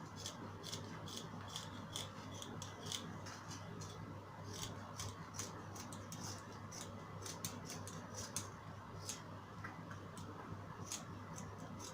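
Scissors cutting through lightweight, flowing dress fabric: a quick, irregular run of snips and blade clicks.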